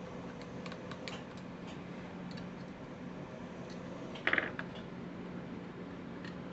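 Treadmill motor driving a bench drill press, running with a steady hum and scattered light clicks, and a short buzzy squeal about four seconds in.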